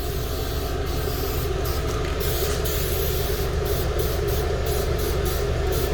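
Aerosol rattle can spraying candy paint in short passes, its hiss breaking off briefly now and then, over the steady hum of a shop fan.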